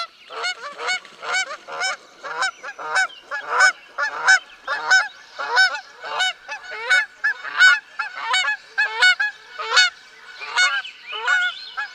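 Goose honking over and over, about two honks a second.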